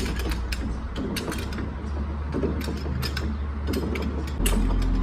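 Metal tools and engine parts clinking and knocking repeatedly over a steady low hum. The hum steps up and gets louder about four and a half seconds in.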